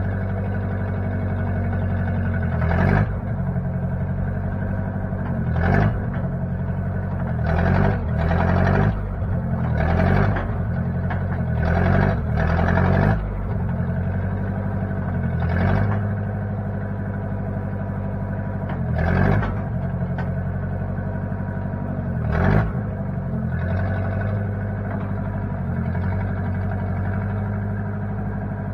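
1960 Case 540 backhoe's engine running steadily. About every two to three seconds there is a short, louder surge, during which the engine's pitch dips briefly and then recovers.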